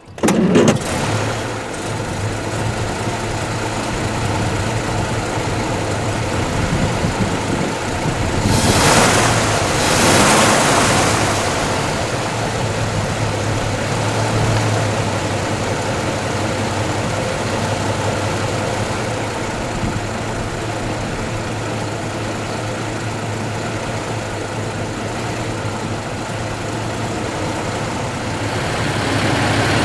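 1934 Rolls-Royce Phantom II's 7.7-litre straight-six engine idling steadily, with a brief louder rush of noise about nine seconds in.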